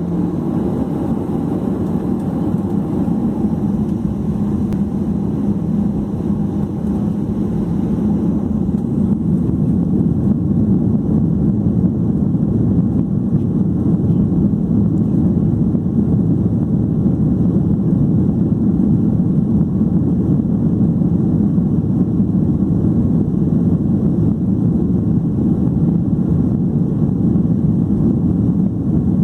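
Cabin noise inside a Boeing 737-800 from a window seat behind the wing: a steady low rumble from its CFM56 jet engines and the airflow, growing a little louder about eight seconds in.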